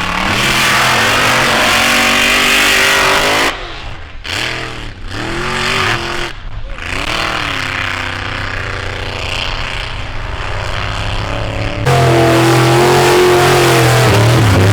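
Truck engines revving, their pitch rising and falling. The sound drops sharply a few seconds in and comes back loud and steady near the end.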